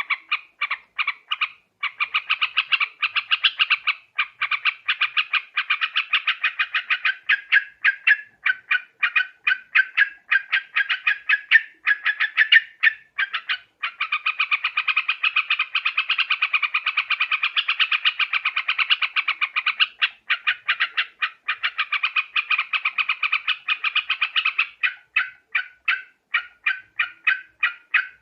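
Yellow-vented bulbuls (trucuk) calling in a fast, continuous chatter of short bright notes. The chatter is densest and overlapping in the middle and thins to separate notes near the end. This is a bird-trapping lure recording.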